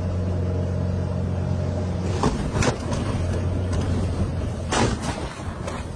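A steady low engine drone with several sharp knocks or clatters over it: two a couple of seconds in, a louder one nearly five seconds in, and one at the very end. The drone weakens near the end.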